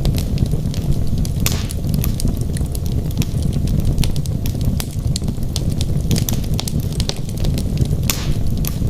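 Wood fire burning in a fireplace, with many sharp crackles and pops from the logs over a steady low rumble of flame. There are two brief hisses, one about a second and a half in and one near the end.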